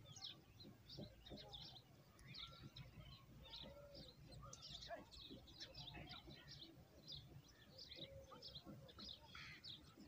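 Oriental magpie robin nestlings begging: a faint, rapid run of short, high chirps, several a second.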